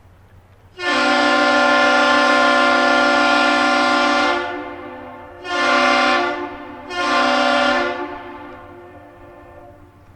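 Large air horn sounding the captain's salute, one long blast and two short ones, echoing as it fades after each blast.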